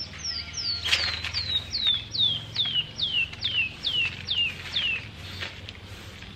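A bird singing a run of about a dozen quick whistles, each sliding down in pitch, at about two and a half a second. The run sinks lower as it goes and ends about five seconds in. A sharp knock comes about a second in, over a low steady hum.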